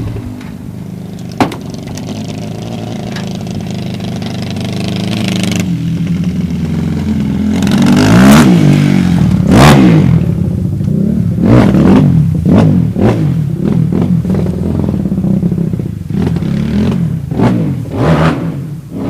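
Dirt bike engine idling steadily, then revved in a string of quick throttle blips from about eight seconds in, with a sharp click early on.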